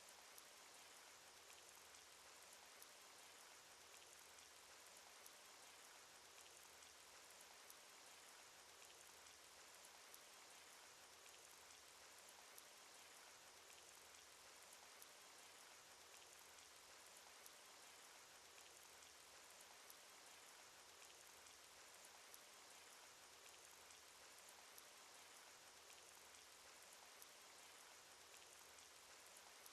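Cartoon rain sound effect: a faint, steady hiss of rainfall with scattered small drop ticks.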